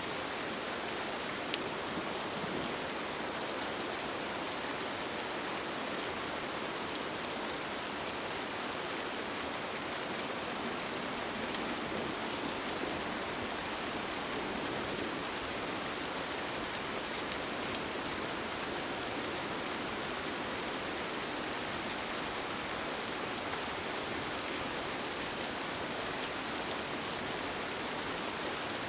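Steady rain falling on a tent, an even hiss with a few faint drop ticks.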